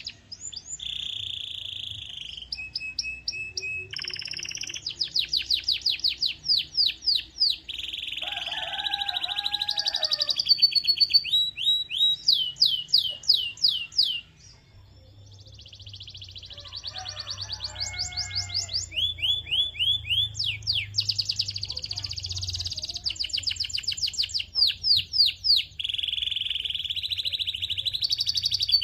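Domestic canary singing a long, nearly continuous song of fast trills and rapidly repeated rising notes, pausing briefly about halfway through.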